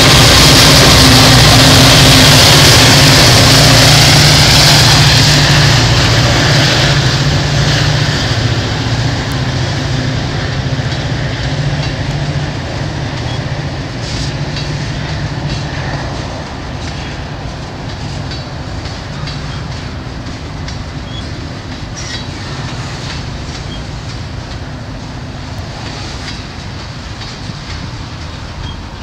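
A Norfolk Southern diesel locomotive, a distributed power unit in a manifest freight, passes close with its engine running loud. The engine sound fades over the first several seconds, leaving the freight cars rolling by with a steady rumble and clickety-clack of wheels on rail joints.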